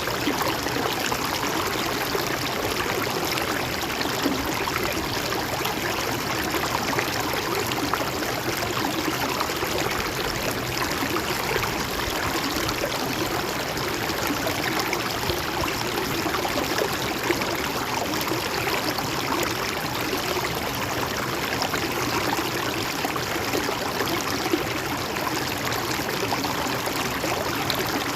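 Shallow river or stream flowing steadily over stones, a continuous babbling rush of water.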